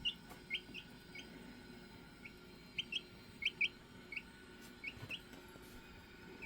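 Chickens peeping: about a dozen short, high, slightly rising chirps, often in quick pairs, at irregular intervals.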